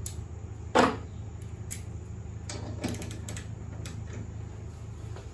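Hand-tool work on a lawn tractor's mower deck: one loud clunk about a second in, then scattered metallic clicks and taps as the wrench works the idler and guard hardware, over a steady low hum.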